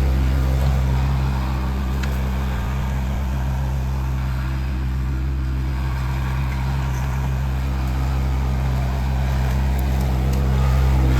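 Tractor engine running steadily under load, its low even drone unbroken, growing a little louder near the end.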